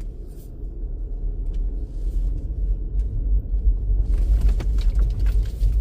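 Low rumble of a car driving slowly, heard from inside the cabin, growing a little louder about four seconds in.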